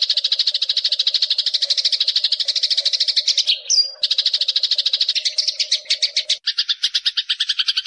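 Eurasian tree sparrow chattering in a fast, unbroken run of high chirps, about a dozen a second. The run breaks briefly about three and a half seconds in for a single higher note, then resumes.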